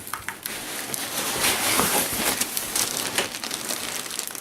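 Cardboard rubbing, scraping and crinkling as an inner box is pulled out of an outer shipping box, a dense crackly rustle that swells in the middle and eases off near the end.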